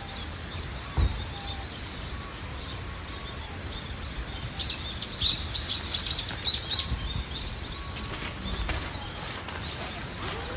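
Small birds chirping, with quick high calls that are busiest from about four to seven seconds in, over a steady background hiss. A short low thump comes about a second in.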